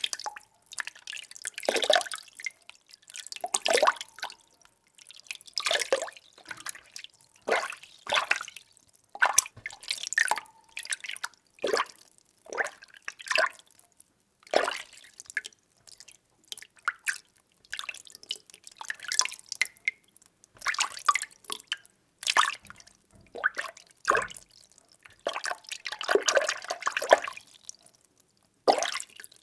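Water being stirred by hand or with a utensil in a container: irregular small swishes, sloshes and drips, about one or two a second, busier for a couple of seconds near the end.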